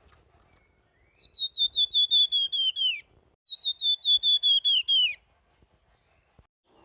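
A flamboyan, the songbird kept in Indonesian masteran training recordings, sings two clear whistled trills. Each trill is a fast run of about seven notes a second that slides down in pitch at its end.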